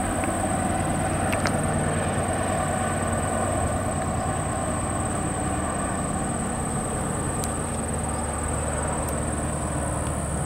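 Distant train led by two EMD GP38-2 diesel locomotives running along the far riverbank: a steady low rumble and hum from the engines and wheels on the rail.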